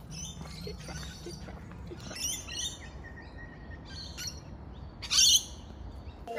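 Birds chirping and calling, with one much louder call about five seconds in, over a low steady rumble.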